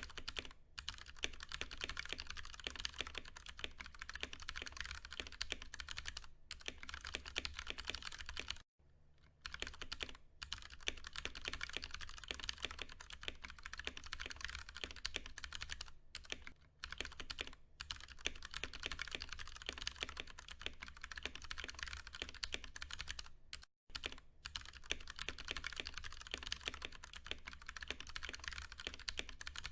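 Fast, continuous typing on a Ducky One 2 Mini mechanical keyboard with tactile Cherry MX Brown switches: a dense run of key strokes, broken by short pauses about nine and twenty-four seconds in.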